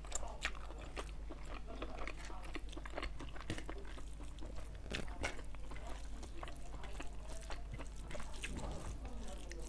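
Close-miked eating sounds: wet chewing, lip smacks and sharp clicks as a mouthful of chicken curry and rice is chewed, with fingers squishing and mixing rice and curry on a plate. A steady low hum sits underneath.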